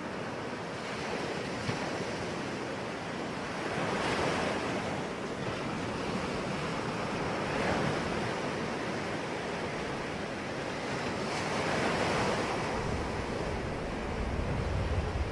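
Sea waves breaking and washing ashore in a steady wash of surf that swells about every four seconds. A low rumble, typical of wind on the microphone, joins near the end.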